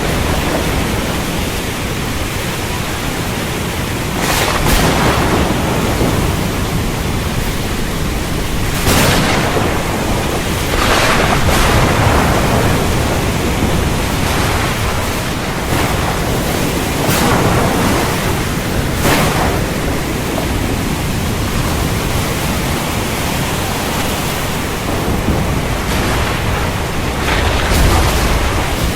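Heavy rain falling steadily, with thunder swelling through it in brief louder bursts every few seconds.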